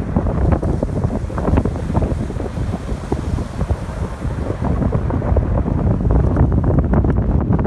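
Strong wind buffeting the microphone in gusts, loudest of all, with ocean waves breaking on the shore beneath it.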